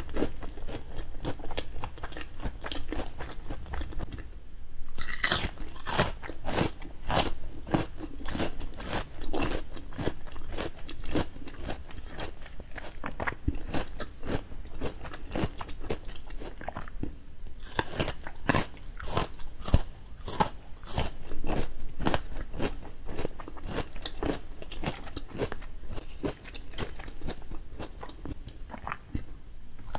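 Close-miked eating: chewing a fried corn dog and crunching raw vegetable sticks, with runs of sharp, crisp crunches about five seconds in and again near the middle.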